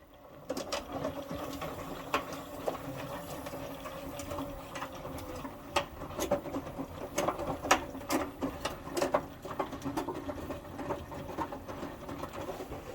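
Indesit 1400-spin washing machine running its wash, with the covers off: the drum motor starts about half a second in and keeps up a steady hum as the belt and pulley turn the drum. Irregular sharp clicks and knocks sound throughout.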